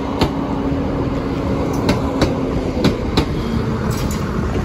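East Midlands Railway diesel multiple unit passing over a level crossing, a steady rumble of wheels on rail with sharp double clicks about once a second as each pair of wheelsets crosses the rail joints, and a steady low tone under it.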